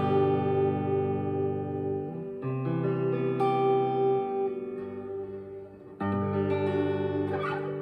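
Harley Benton SC-DLX electric guitar played clean through a Boss Katana MkII amp, dialled for a Stratocaster-like tone. Chords ring out, with new chords struck about two and a half seconds in, again about a second later, and about six seconds in.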